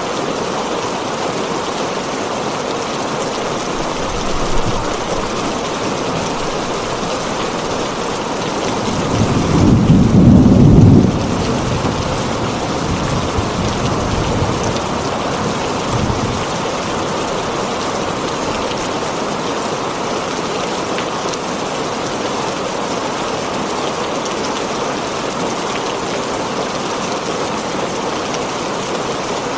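Heavy rain falling steadily on a tin roof. A roll of thunder rumbles about nine to eleven seconds in, the loudest moment, with fainter rumbles around four and sixteen seconds.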